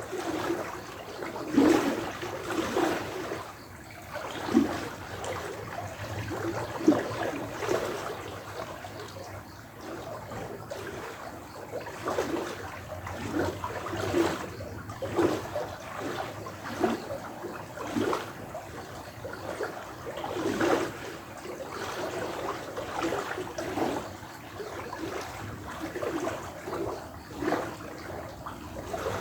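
Running water trickling and gurgling, with irregular hollow, bouncing plops and splashes over a steady flow.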